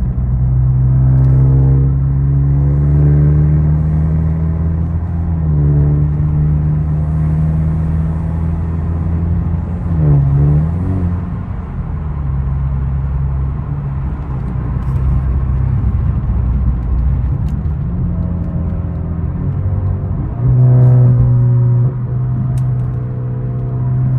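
Genesis G70's 2.0-litre turbocharged four-cylinder, fitted with a big turbo, running as the car is driven, its revs rising and falling several times, with a quick drop and recovery about ten seconds in.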